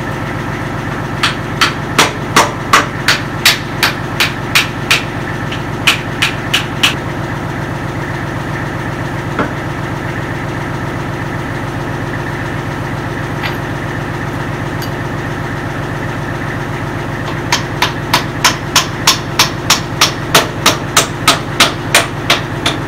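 Hammer blows on steel, about three a second in two runs: a dozen or so strikes near the start and another long run near the end. They fit driving a backhoe cylinder pin home. Under them the Kubota L35 tractor's diesel engine idles steadily.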